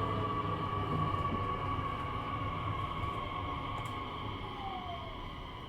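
Inside a Nishitetsu 3000 series electric train's motor car: the traction motor whine sounds as several steady tones that slowly fall in pitch over the rumble of the running gear. The noise fades as the train slows.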